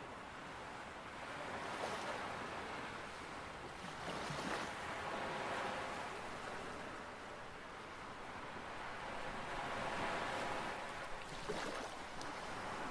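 Ocean waves washing onto a shore, a steady hiss of surf that swells and recedes in slow surges.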